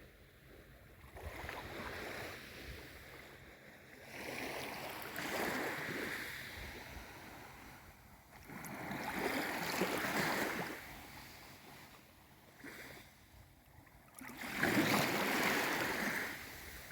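Small waves of a calm sea washing in, four swells of surf a few seconds apart, each fading before the next; the last is the loudest.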